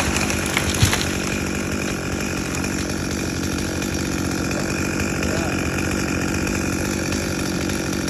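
Chainsaw engine running at a steady speed, with a few short sharp knocks within the first second.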